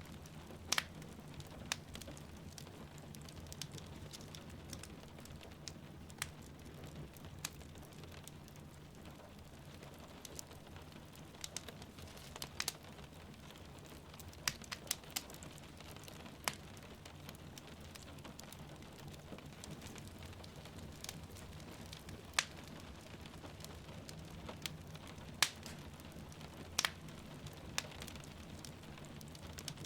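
Wood fire crackling in a fireplace, with irregular sharp pops and snaps over a steady low rumble, and rain falling outside as a soft even hiss.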